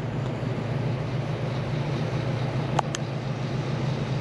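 1968 AMC AMX's 390 V8 running steadily while the car is driven, with its hum and road noise heard from inside the cabin. Two light clicks come close together about three seconds in.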